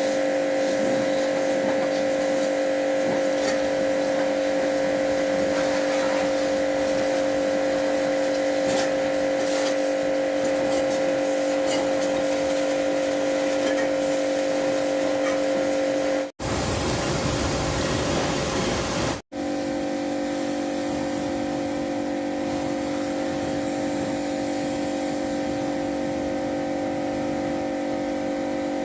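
A motor running at a steady speed with an even hum, interrupted partway through by about three seconds of rushing noise.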